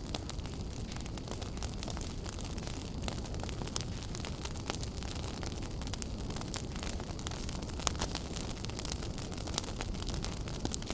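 Wood fire burning in a fireplace: a steady low rumble with frequent sharp crackles and pops, a couple of louder pops in the second half.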